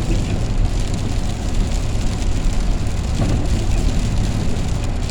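Van cabin noise while driving in heavy rain: a steady low engine and road rumble under the even hiss of rain on the vehicle.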